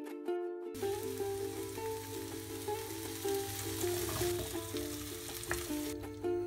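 Zucchini and tomatoes sizzling as they fry in a pan, stirred with a wooden spoon; the sizzle starts about a second in and stops shortly before the end. Plucked-string background music, like a ukulele, plays throughout.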